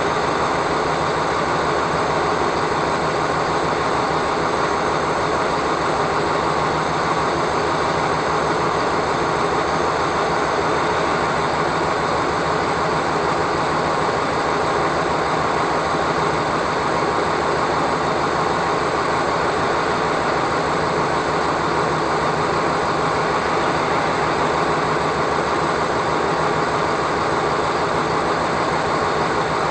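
Steady engine and road noise of a running vehicle: an even rushing hum that holds without change.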